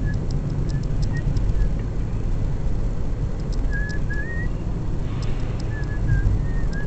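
A steady low rumble with faint, short wavering whistle-like notes and scattered high ticks over it.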